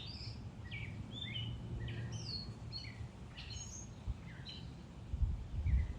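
Gray catbird singing a steady, jumbled run of short, varied chirps and slurred notes over a low background rumble.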